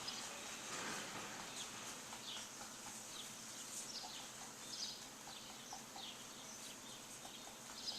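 Several birds chirping with short, scattered calls over a steady outdoor background hiss.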